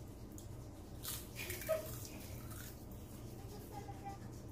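Person chewing crispy roasted seaweed sheets, a few soft crunches about a second in, over a faint steady low hum.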